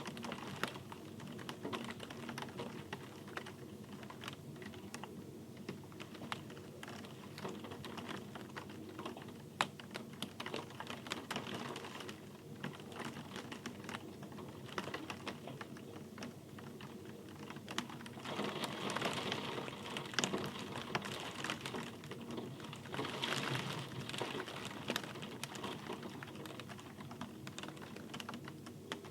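Rain falling, with many individual drops ticking sharply and close together over a steady patter. It grows heavier in two spells, about two-thirds of the way through and again a few seconds later.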